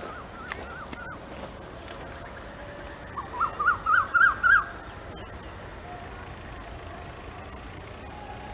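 A bird calling a quick series of about six short upslurred notes, each a little higher and louder than the last, about halfway through, over a steady high-pitched hum.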